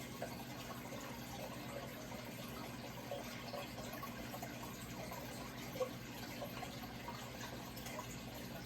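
Running water trickling steadily, with small drips and pops scattered through it, one louder about six seconds in, over a steady low hum.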